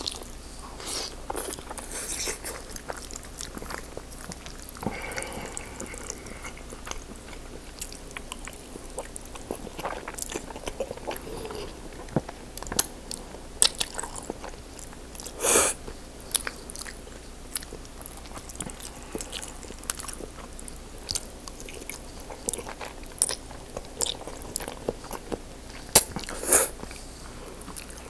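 Close-miked eating sounds of a person chewing and biting soft lobster tail meat and pasta: many wet smacks and clicks from the mouth. A louder, longer burst of noise comes about halfway through, and another near the end.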